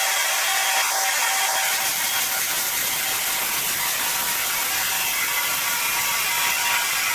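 Sawmill saw cutting through timber: a steady, even, high-pitched rasping noise with a faint whine underneath.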